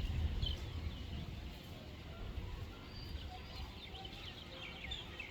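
Small birds chirping: many short, quick high calls, thickening into a busy chatter in the second half, over a low rumble.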